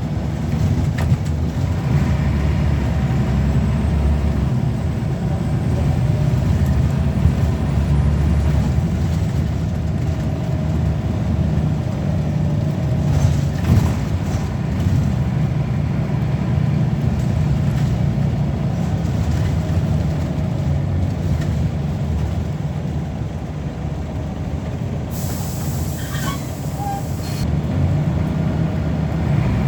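Diesel engine of a Scania L94UB single-deck bus running steadily under way. A short high hiss of air cuts in about 25 seconds in.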